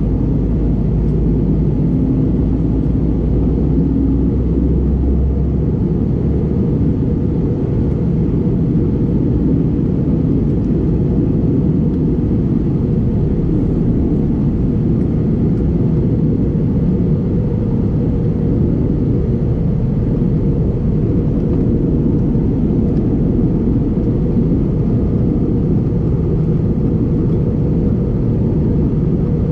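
Airliner cabin noise inside an Airbus A320neo in flight: the steady rumble of its Pratt & Whitney PW1100G geared-turbofan engines and the airflow over the fuselage, heavy in the low end. A low drone under it drops away about six seconds in.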